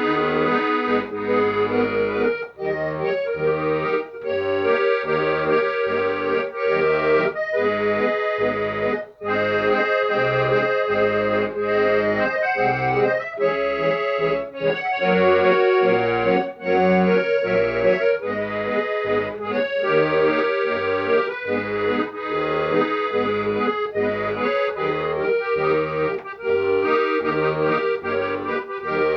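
Accordion playing an instrumental tune: a sustained melody over an even beat of bass notes and chords.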